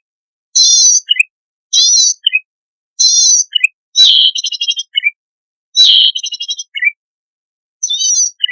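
Cici padi (zitting cisticola) singing: short, high, wavering buzzy phrases repeated about once a second, with silent gaps between. Twice, about four and six seconds in, a phrase runs on into a rapid ticking trill.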